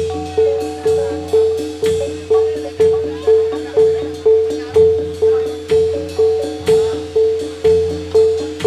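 Gamelan music for a jathilan dance: a metallophone strikes the same note over and over, about two strikes a second, over a low drone and drum beats.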